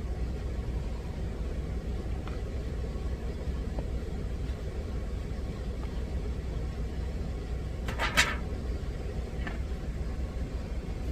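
Steady low engine rumble of an idling truck. About eight seconds in comes one brief sharp clatter, like a metal utensil knocking against a pan.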